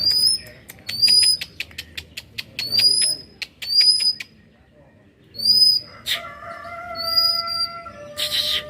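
Songbirds calling: short up-and-down whistles repeated about once a second, with rapid clicking notes between them. From about six seconds in comes a long steady tone, and near the end a brief harsh burst.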